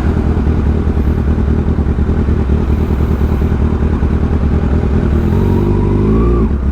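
Kawasaki ZX-6R's inline-four engine running steadily at low revs with a pulsing low rumble. About five seconds in, an engine note rises in pitch for over a second, then drops off sharply near the end.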